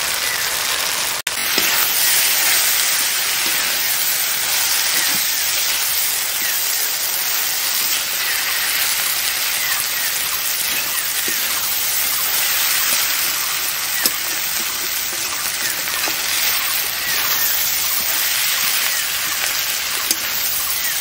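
Spiced taro sticks and prawns frying in oil in a metal wok: a steady, dense sizzle, with an occasional faint tick of the metal spatula as the mix is stirred. This is the masala being sautéed (kasha) before water goes in.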